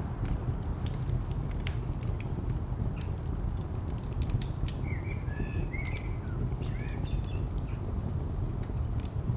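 Wood fire crackling with scattered sharp pops over a steady low rumble of distant traffic. A few short bird chirps come about five to seven seconds in.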